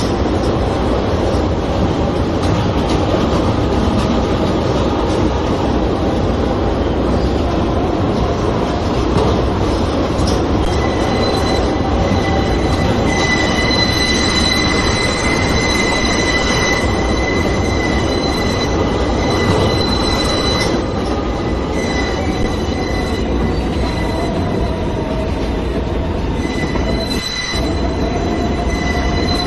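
New York City Subway J train running between stations, heard from inside the car: a steady, loud rumble of wheels on track. High-pitched wheel squeal sets in about a third of the way through, eases off, then comes back near the end.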